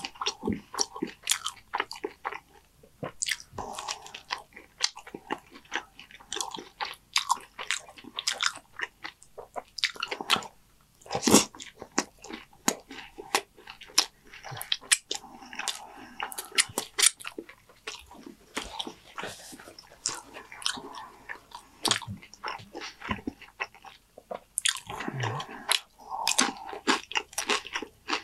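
Close-miked chewing of Dorito-chip nachos loaded with cheese and toppings: a dense, irregular run of sharp crunches, with a brief lull about ten seconds in.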